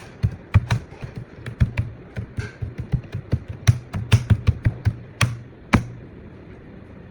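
Irregular sharp taps and clicks, a few to several a second, over a faint low hum.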